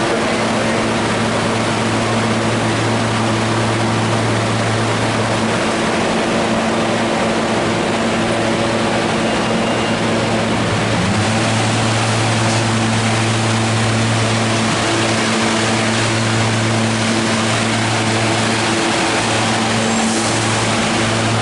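SEPTA Silverliner V electric multiple-unit train standing at the platform, giving a loud, steady electrical hum over a noisy rush of equipment and station air. The hum shifts slightly about halfway through.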